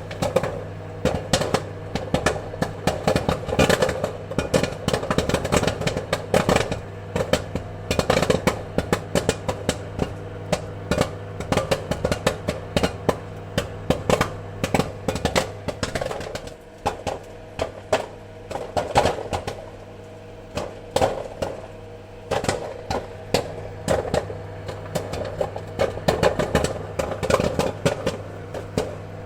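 Popcorn kernels popping in quick, irregular succession, many sharp pops a second, over a steady low hum.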